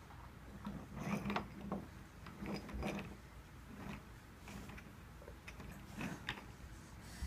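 Plastic toy train set mechanism clicking and ratcheting in uneven bursts with a faint low hum, as the set's button-worked coal hopper is operated.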